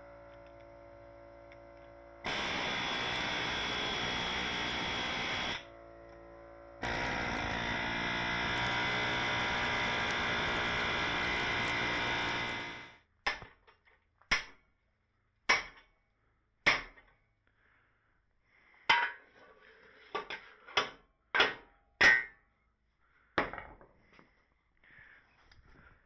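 Loud steady rushing roar for about ten seconds, broken once by a short pause, then fading out. Then about ten hammer blows on the heated steel tube over a square mandrel, roughly a second apart.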